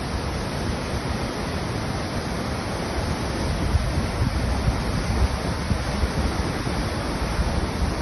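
Steady rush of heavy rain and wind, with gusts buffeting the microphone in low rumbles.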